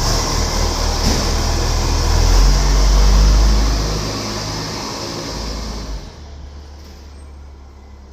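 A heavy fire truck driving past with its diesel engine running. The low rumble swells to a peak about three seconds in, then fades away; the sound drops sharply about six seconds in.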